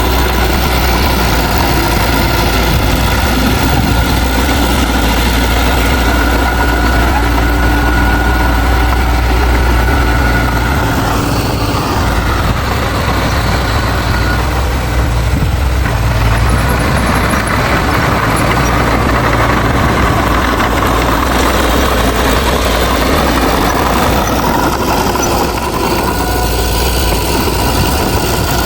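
Heavy diesel engine of earthmoving machinery running with a steady low drone. Its note shifts a little before the middle and settles back near the end.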